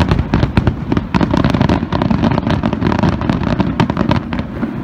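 A fireworks finale barrage: aerial shells bursting in a rapid, continuous run of booms and crackling reports. The barrage thins slightly near the end.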